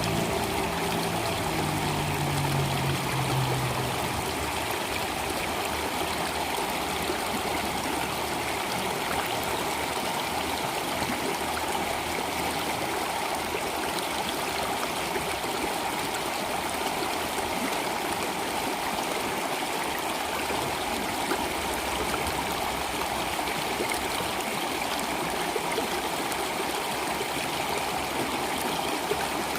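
Stream water flowing steadily, an even continuous rush and babble. Low held notes of background music fade out over the first few seconds.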